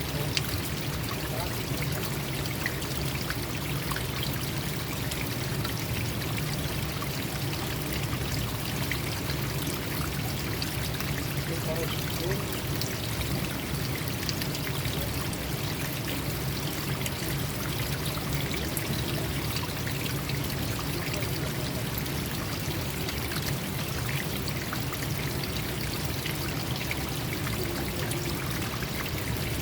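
Stream water flowing and gurgling steadily, a continuous even rush without pauses.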